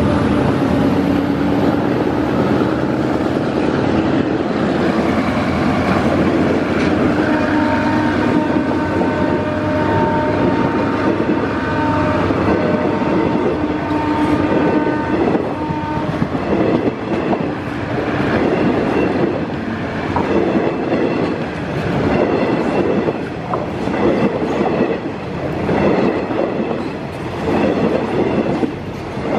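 Passenger coaches of a train rolling past close by. For the first half, wheel-on-rail noise carries several steady ringing tones. From about halfway it becomes a rhythmic clickety-clack of wheels over rail joints.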